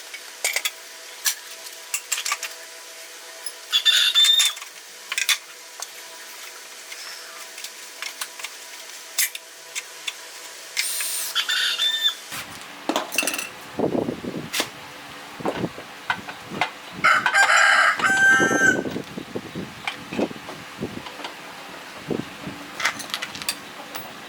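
Chickens calling and a rooster crowing, several times, the longest and loudest crow about three quarters of the way through, with scattered sharp clicks and knocks between the calls.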